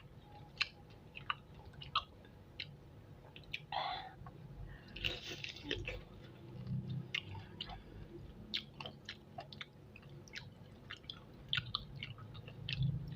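Close-miked chewing and biting of spicy chicken feet, with irregular sharp wet clicks and smacks of the mouth as the skin and cartilage are gnawed off the bones.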